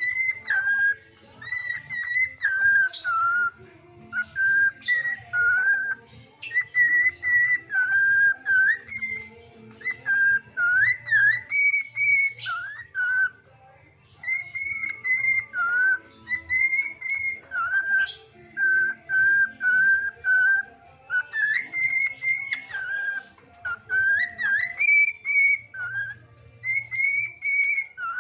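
A pet bird whistling a sholawat melody: clear whistled notes stepping between a few pitches, in short tuneful phrases with brief pauses.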